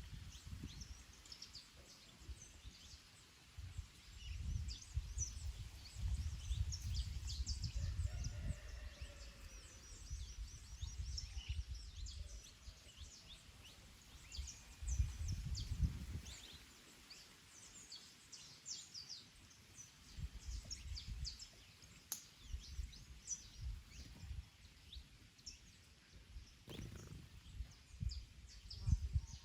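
Several small birds chirping and singing, with short quick notes throughout, while gusts of wind rumble on the microphone, swelling and dying away every few seconds.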